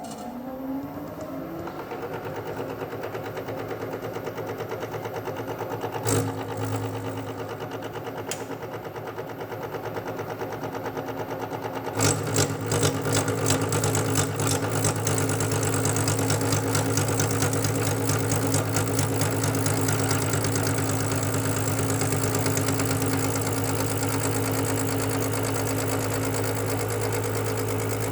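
Machine spindle motor winding up to speed, then running with a steady hum. About twelve seconds in, the cutter bites into the bronze in a cast-iron lathe apron casting, and a rattling cutting noise rides over the hum.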